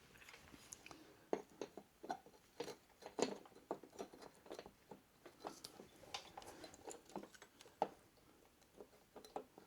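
Scattered light clicks and taps of metal engine parts being handled and fitted by hand, irregular and quiet, with one sharper click near the end.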